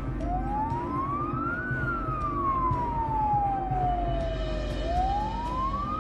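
Emergency vehicle siren wailing. Its pitch climbs for about a second and a half, falls slowly for about three seconds, then climbs again near the end, over a low rumble.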